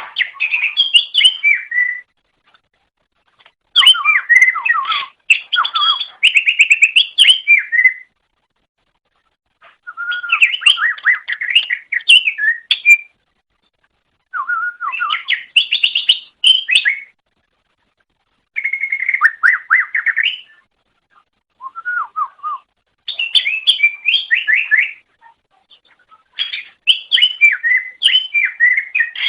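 Cucak ijo (green leafbird) singing: a series of fast, warbling phrases of one to three seconds each, separated by short pauses.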